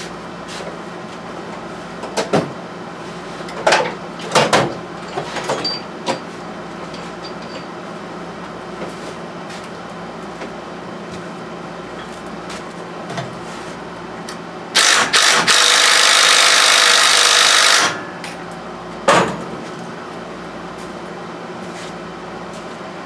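Mechanic's work on a mini bike: clicks and knocks of tools and metal parts being handled, then a power tool runs for about three seconds, likely driving out the cover screws, over a steady background hum.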